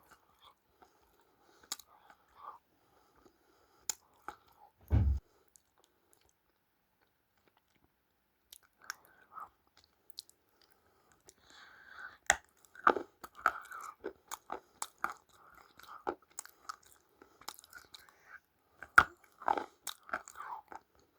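Close-up biting and chewing of crunchy food, with sharp crackling crunches. A few isolated crunches and a low thump come first, then a pause, then a dense run of chewing crunches from about halfway through.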